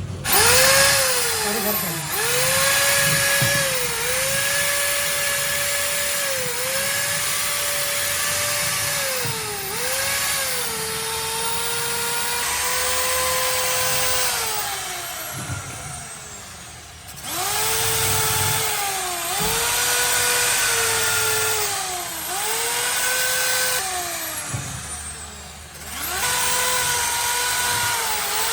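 Hand-held electric power tool running with a high motor whine, its pitch sagging and recovering every couple of seconds as it bites into the work. It winds down twice and is started up again.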